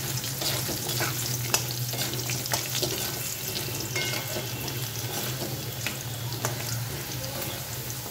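Potato pieces sizzling and crackling in hot oil in an aluminium kadai, with a spatula scraping and tapping the pan now and then as they are stirred. A steady low hum runs underneath.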